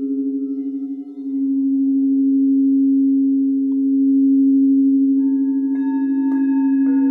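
Singing bowls being played: a low bowl tone rings steadily with a slow pulsing waver, swelling about a second in. From about five seconds in, higher bowl tones join with three light strikes.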